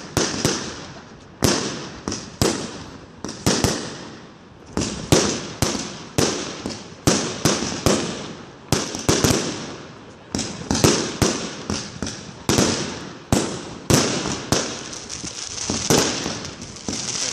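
Fireworks battery (cake) firing: a fast, irregular run of sharp launch bangs and aerial bursts, about two to three a second, each fading quickly.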